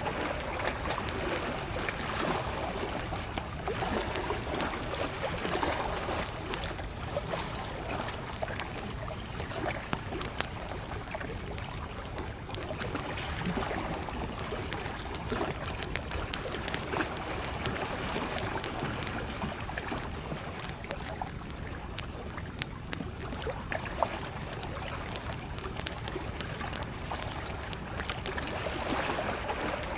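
Small lake waves lapping against the shore in slow, soft swells, with a wood campfire crackling throughout in scattered small pops and an occasional sharper snap.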